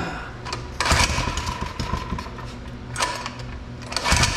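Doodlebug mini bike's small engine running, with two loud surges, about a second in and near the end. The owner suspects the centrifugal clutch on the side of the motor is locking up when it idles.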